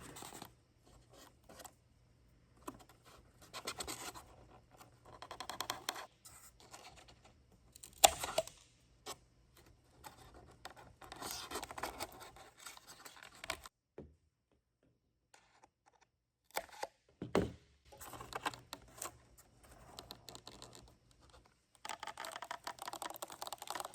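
Wooden barbecue skewers being worked into the foam airframe of an RC airplane: irregular scratching and scraping, with a sharp snap about eight seconds in and another some nine seconds later, and a short quiet spell between.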